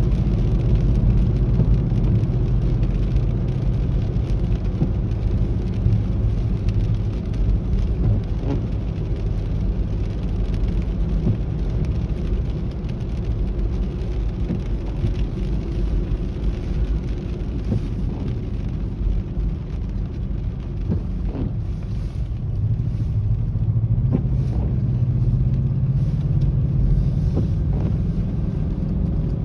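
Car cabin noise while driving: a steady low rumble of engine and tyres. It eases through the middle and builds again about three-quarters of the way in.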